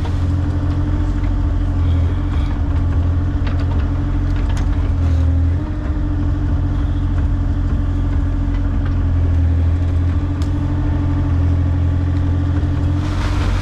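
Excavator's diesel engine running steadily while digging, with a constant low hum and an even whine. There is a brief dip in level about halfway through, after which the whine sits slightly higher.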